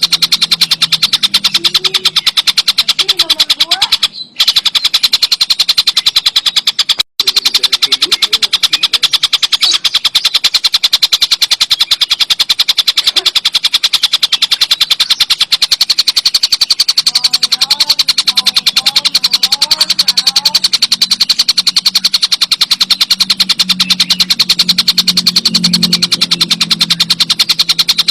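Tengkek buto bird calling in a loud, continuous rapid rattle of quick repeated notes, cut by two brief drop-outs near the start, over a low hum.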